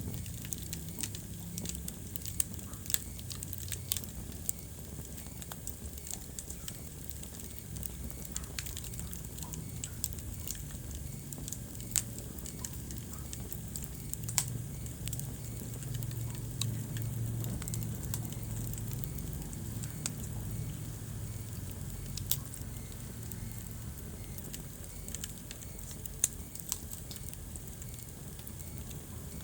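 Wood fire burning in a fireplace: steady crackling over a low rumble of flame, with sharp pops every few seconds.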